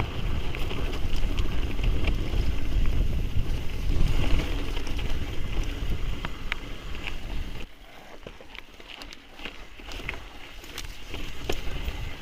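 Wind buffeting the microphone and tyre noise as a mountain bike rolls along. It drops off sharply about eight seconds in, after which there are a few scattered light clicks and rattles.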